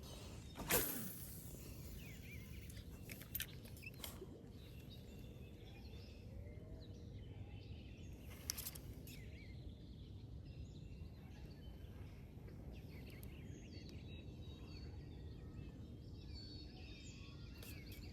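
Quiet outdoor ambience: a steady low background hiss with faint bird chirps and a few short sharp knocks or splashes, the clearest about a second in.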